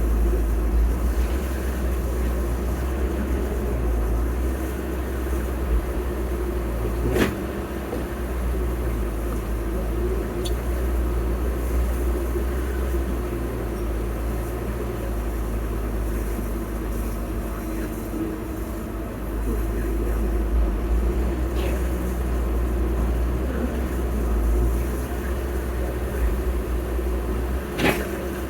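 Heavy diesel machinery engine running steadily with a deep rumble, with a sharp knock about a quarter of the way in and another near the end.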